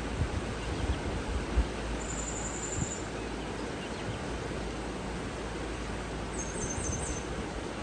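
Steady rushing of water with a low rumble and a few soft thumps in the first couple of seconds. Over it, a high thin trill lasting about a second comes about two seconds in, and a bird gives a quick run of four high chirps near the end.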